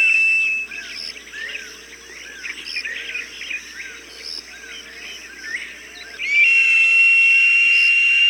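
Falcon cries: a long, steady high-pitched scream that cuts off just under a second in and starts again about six seconds in. Between the screams, fainter short chirping calls repeat.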